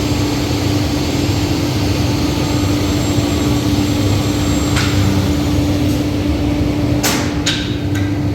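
A steady motor or engine drone with a constant hum, and a few sharp clicks or knocks in the last couple of seconds.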